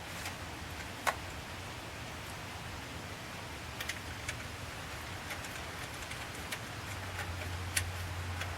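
A few scattered light clicks and taps of hand tools on metal, the sharpest about a second in, over a steady low hum that grows louder near the end.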